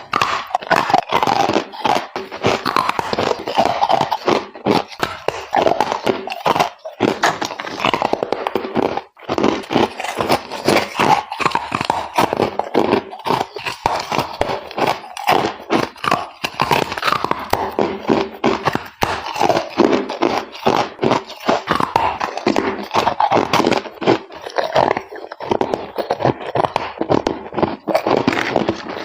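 Close-miked ice being bitten and chewed: a dense, unbroken run of crackling crunches with a couple of brief pauses.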